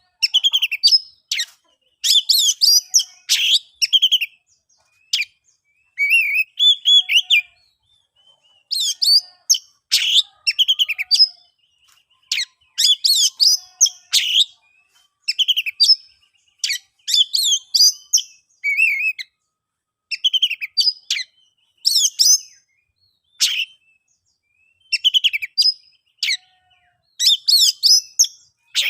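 Oriental magpie-robin singing loud, varied phrases of whistles and chirps, each a second or so long, with short pauses between them.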